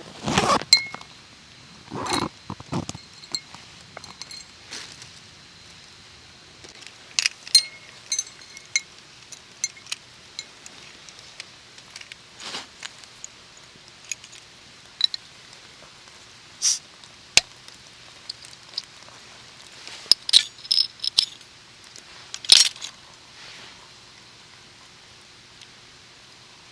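Scattered clinks and knocks of metal camp cookware and utensils being handled, a few leaving a brief metallic ring.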